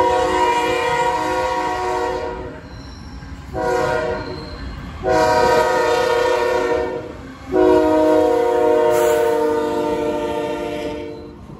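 CSX freight locomotive's multi-chime air horn sounding a chord in four blasts, the last one the longest, over the low rumble of the approaching train.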